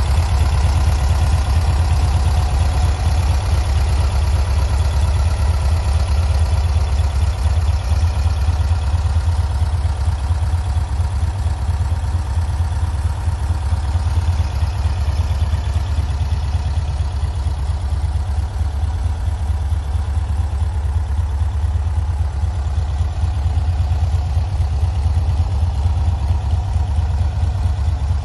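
Air-cooled flat-four engine of a Volkswagen Type 2 bus idling steadily.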